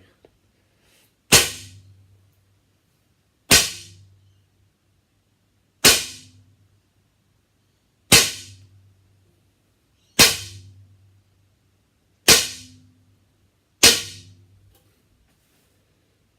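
Topoint R3 recurve bow dry-fired seven times in a row, about every two seconds, drawn about as far back as it will go: each release with no arrow is a sharp, loud snap of string and limbs, followed by a short low ringing as they vibrate.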